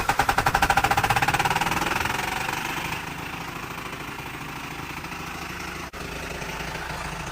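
An engine just after starting, running fast with rapid even firing pulses, then settling to a steady idle about three seconds in.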